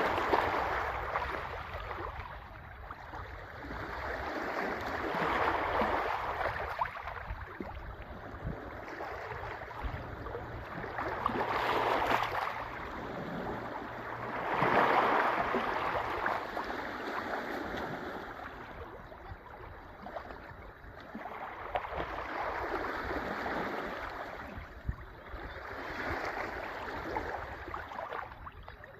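Sea waves washing ashore, a rushing noise that swells and ebbs in irregular surges every few seconds.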